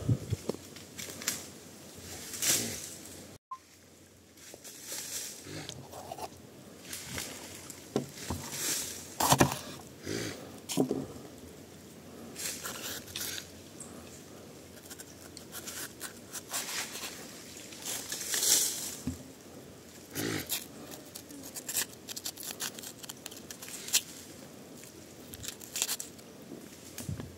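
A coati foraging close by: irregular sniffing and snuffling with rustles, scrapes and crackles in dry leaves, in short bursts a second or two apart.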